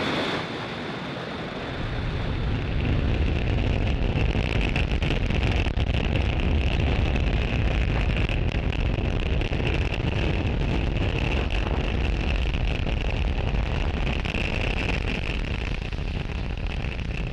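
Falcon 9 rocket's nine first-stage Merlin engines firing during ascent: a loud, steady low rumble with hiss that swells about two seconds in.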